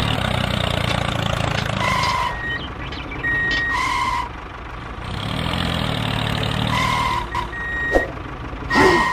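Tractor engine running with a low hum that fades in the middle and comes back, under a series of short electronic beeps that go off about four times.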